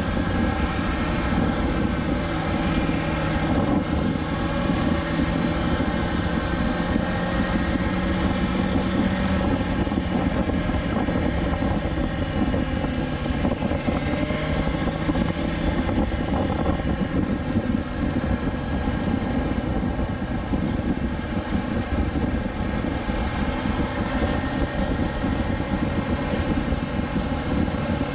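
BMW S1000XR's inline-four engine running at a steady cruise, an even drone holding nearly the same pitch, with wind rushing over the microphone.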